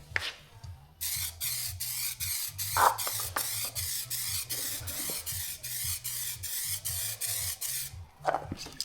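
Aerosol can of 2K clear coat spraying, a steady hiss that starts about a second in and stops near the end, with a fast even flutter through it.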